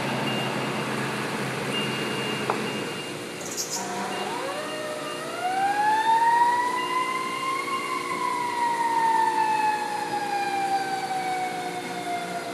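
Fire engine's mechanical siren winding up about four seconds in to one long rising wail, then slowly coasting down in pitch. A brief hiss comes just before the wind-up, over the steady running of the truck.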